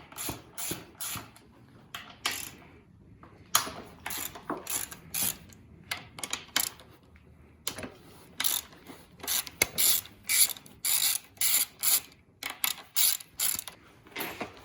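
Ratchet wrench clicking in quick runs of strokes with short pauses between, backing out the 12 mm bolts that clamp a dirt bike's front fork tube in the triple clamps.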